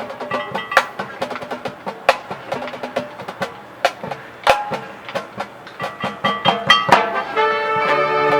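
Marching band percussion passage: sparse sharp drum and wood-block-like strikes with short pitched mallet notes, the sustained wind chords having dropped out. Held chords from the full band come back in about three-quarters of the way through.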